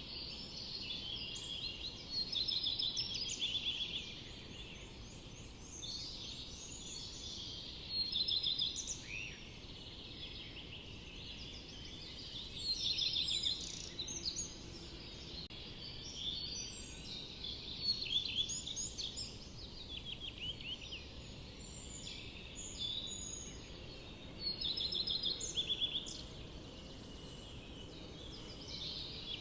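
Songbirds singing in a forest: bursts of rapid, high chirping notes and trills recurring every few seconds, over a steady low background rush.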